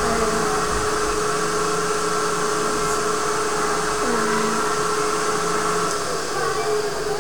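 Steady machine hum, like a fan or small motor running, with a constant tone in it.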